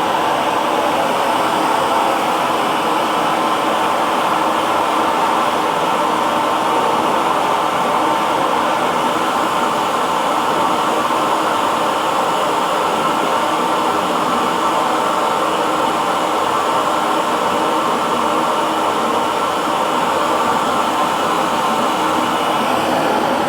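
Hair dryer running at a steady setting: a constant rush of blown air with a faint motor hum, loudest in the middle range and unchanging throughout.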